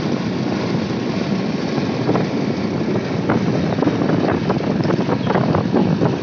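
Motorcycle running while being ridden: a steady rumbling rush of engine and road noise. From about two seconds in, many short clicks and knocks sound over it.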